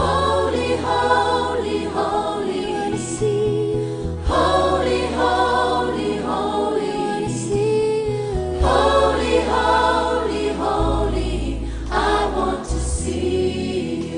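Gospel music with a choir singing over sustained bass chords that change every few seconds.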